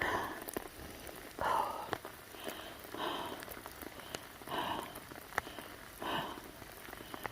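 Rain falling on the trail and woods, with scattered sharp drop clicks and a soft swishing swell about every one and a half seconds.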